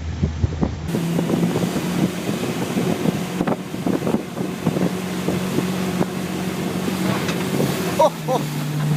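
Motorboat engine running steadily under way, with wind buffeting the microphone and water rushing; the engine note drops slightly about eight seconds in.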